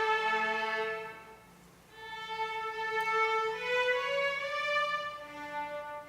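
Violin playing slow, sustained notes, with a short pause about a second and a half in before the melody resumes and climbs higher.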